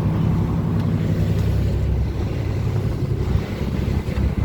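A fishing boat's engines running steadily underway, a low even drone, with wind on the microphone.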